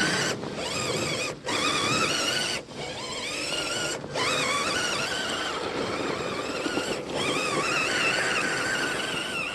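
Scale RC truck's electric motor and drivetrain whining, the pitch wavering up and down with the throttle, with a few short breaks where it cuts out.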